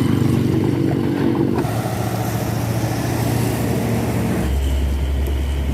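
Vehicle engines running steadily, with a deeper, steady engine drone setting in about four and a half seconds in.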